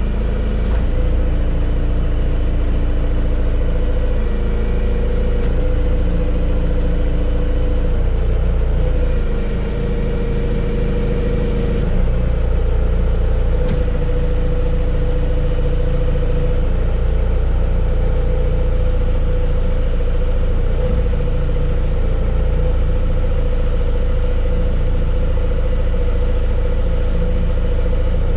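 Big diesel engine running steadily and loudly, its pitch stepping up and down a few times as the machine works.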